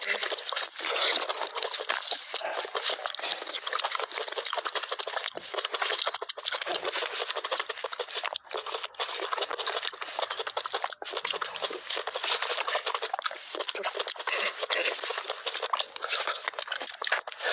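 Close-miked wet mouth sounds of eating and drinking: a dense, steady crackle of fine clicks, with a few brief breaks.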